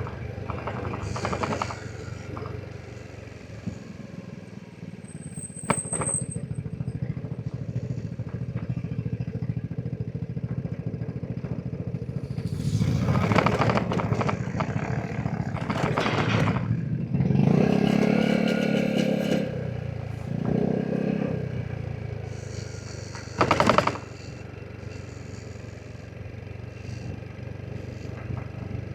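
Vespa GTS 300 scooter's single-cylinder four-stroke engine running under way, with road and wind noise. It grows louder about halfway through and the engine speed rises and falls a few times, with a short loud rush near the end.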